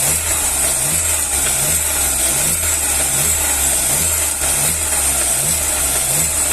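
Chevrolet Astra car engine running steadily near idle, with a regular low pulse about one and a half times a second and a steady high hiss. The engine is being checked for a faint, intermittent noise that only shows now and then.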